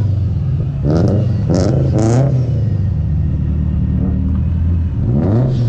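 Sports car engines running loudly, with several short, sharp throttle blips whose pitch sweeps quickly up and back, three in quick succession early and another near the end.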